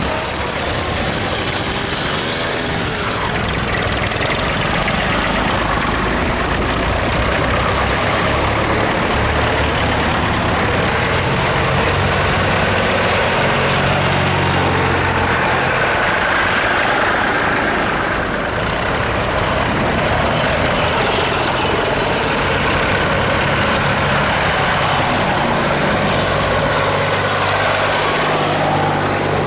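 Tractor and car engines running steadily, with deeper engine notes rising and fading several times as vehicles come close.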